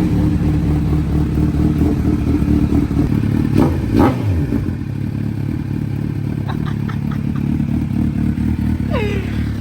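Honda CBR1000RR superbike's inline-four engine idling just after starting, with a short rev blip about four seconds in before it settles back to a steady idle.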